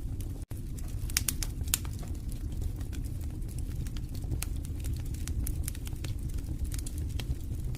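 Wood fire burning in a fireplace: a steady low rumble of the flames with irregular sharp crackles and pops from the burning logs. The sound cuts out for an instant about half a second in.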